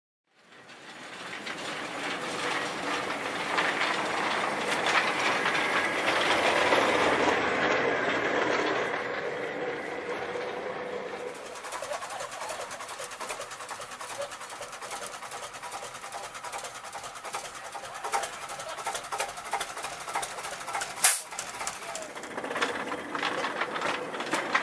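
Small narrow-gauge light-railway train running along the track, a steady clatter that builds up at first and then, after a change, goes on with many light wheel clicks over rail joints and points, one sharp click standing out near the end.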